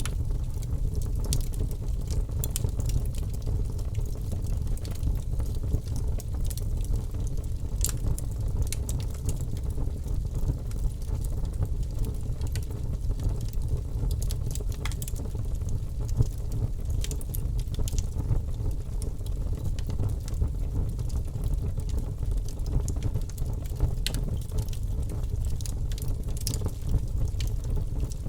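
Wood fire burning in a fireplace: a steady low rumble with scattered sharp crackles and pops from the burning wood.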